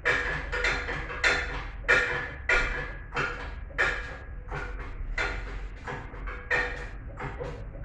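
Hammer striking metal engine parts during an engine teardown: a long series of irregular blows, about one or two a second, each ringing briefly, over a low steady hum.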